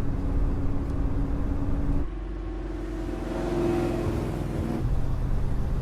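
Car engines running, with abrupt changes in the engine note like cuts between shots: a steady note gives way about two seconds in to another engine that swells and rises in pitch, then the sound changes again near the end.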